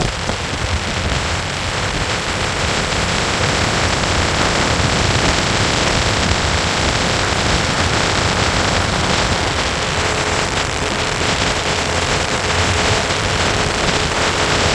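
Steady, loud rushing noise of a moving boat, water and wind with a heavy low rumble; a faint steady tone joins about ten seconds in.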